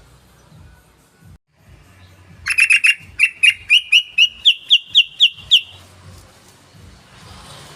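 Yellow-vented bulbul (trucukan) calling: a quick run of about fourteen sharp chirps over three seconds, about four a second, each note sliding upward. The run starts about two and a half seconds in.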